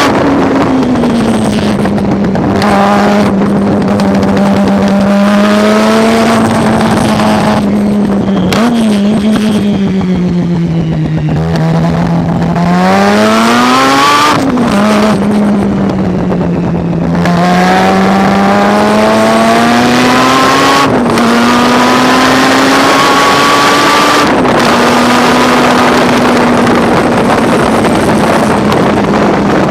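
Race car engine at high revs through a lap. Its pitch climbs and falls repeatedly, with several brief lifts or gear changes where the sound cuts back for a moment.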